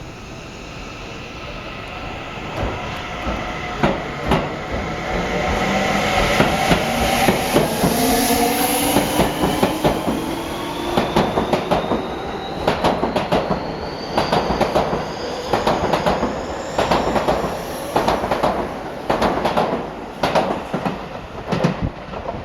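Seibu 30000 series electric train pulling away, its traction motor whine rising steadily in pitch as it accelerates. From about halfway through, the wheels clatter over rail joints in a quickening rhythm.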